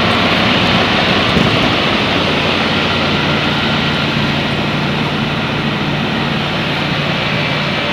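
Outdoor central air-conditioner condensing units running: a steady rush of condenser-fan air with a low steady hum underneath.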